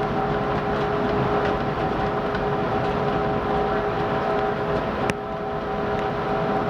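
Interior noise of a CTA elevated 'L' train car: a steady hum and rumble with two steady tones running throughout, and a single sharp click about five seconds in.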